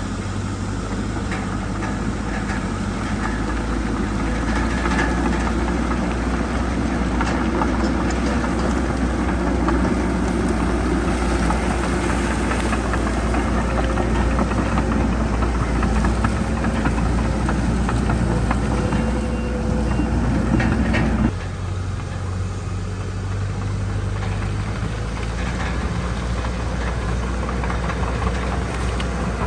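Heavy diesel earthmoving machinery running steadily under load, an engine drone with scattered clanks and scrapes. About 21 seconds in the sound drops abruptly to a quieter, steady engine running.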